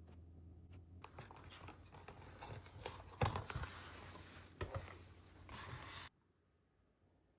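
Close-up desk sounds of paper and stationery being handled: scratching and rustling with several sharp clicks, the loudest about three seconds in. It cuts off abruptly about six seconds in.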